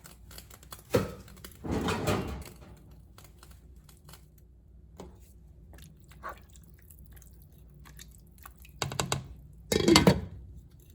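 Pots and utensils being handled on a stovetop: a sharp knock about a second in, a short clatter just after, faint ticks, then two louder clattering bursts near the end.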